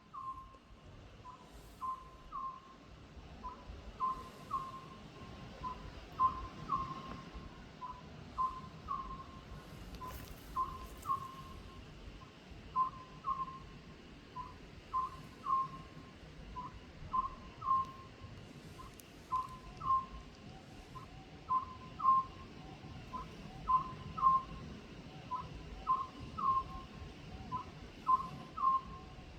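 Oriental scops owl calling: short whistled hoots in twos and threes, repeated about once a second without a break.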